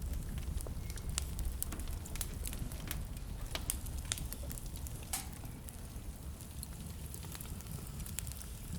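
Wood fire crackling in a fireplace: irregular sharp pops and snaps over a low steady rumble, with a louder pop about five seconds in.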